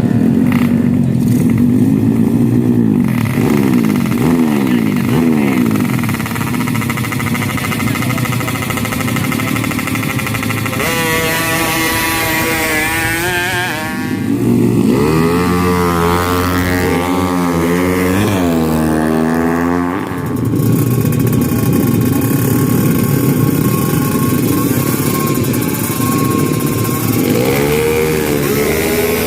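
Tuned drag-racing motorcycle engines revving hard, their pitch climbing and falling over and over, with overlapping engines audible together.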